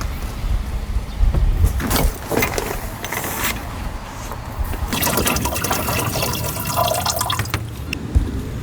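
Liquid being poured into a container, with a few knocks of handling in between and a longer run of pouring in the second half.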